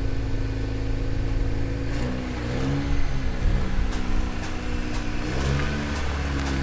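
Turbo four-cylinder engine of a 2018 Honda Accord 1.5T with the resonator and muffler deleted. It runs steady for about two seconds, then is revved up and down several times.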